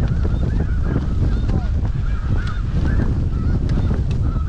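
A flock of snow geese calling, many short overlapping honks at once, with no let-up, over a constant low rumble of wind on the microphone.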